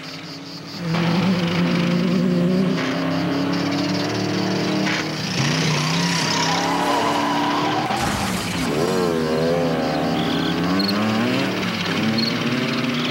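Racing-car engine sounds starting about a second in, revving and sliding up and down in pitch, with tyre screeches.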